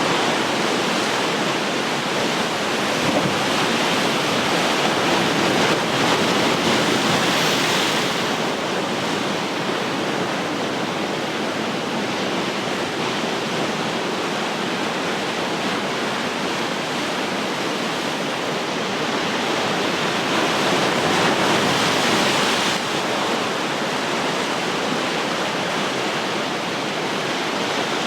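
Ocean waves breaking and washing on the shore in a steady hiss of surf, swelling twice, a few seconds in and again about twenty seconds in.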